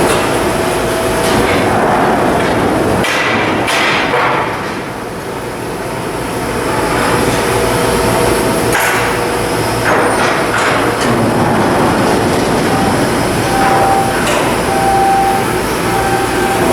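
Shipyard steelwork noise: a steady loud industrial din with several sharp metal knocks and clanks, and short intermittent tones near the end.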